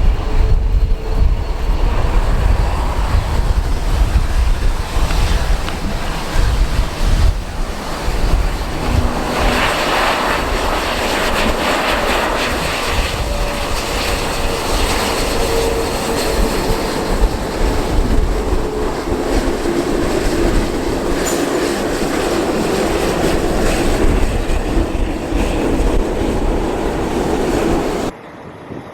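Heavy wind buffeting the microphone over the rumble of a jet airliner's engines, with faint engine tones that drift slowly in pitch.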